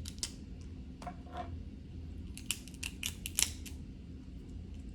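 Snow crab leg shell being cracked and picked apart: a series of sharp cracks and snaps, the loudest cluster about two and a half to three and a half seconds in.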